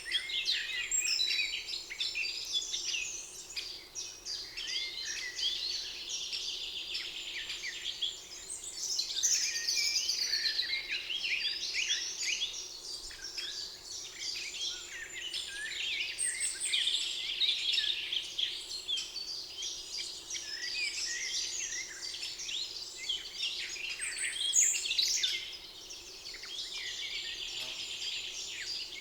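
A chorus of several songbirds singing at once in a spring forest: overlapping chirps, quick trills and whistles, with a few buzzy trills repeating, over a faint steady background hum.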